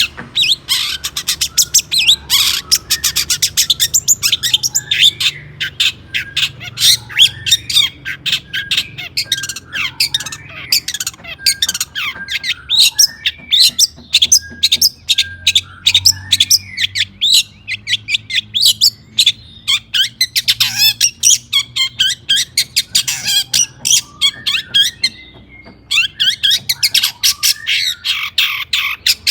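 Long-tailed shrike (cendet) singing almost without a break in a fast run of sharp, high notes, with one short pause near the end.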